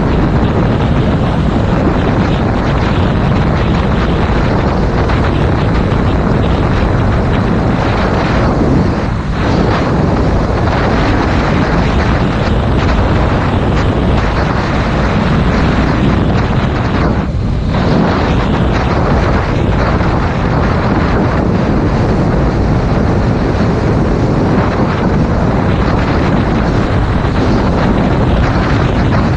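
Heavy wind noise on a helmet-mounted action camera's microphone at riding speed, over a Yamaha MT-07 motorcycle's parallel-twin engine. The noise is loud and constant, with brief dips about nine seconds in and again past the halfway point.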